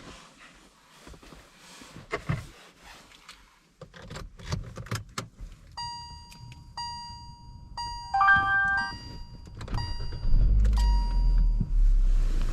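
Car cabin sounds after parking: a few clicks and knocks of handling controls, then the car's electronic warning chime beeping about once a second, with a short three-note chime about eight seconds in. A low rumble joins near the end.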